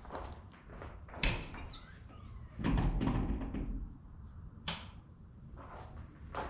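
A tractor door opening with a sharp metallic clack and a brief ring about a second in, then about a second of low thumping and scraping, and a lighter click near five seconds in.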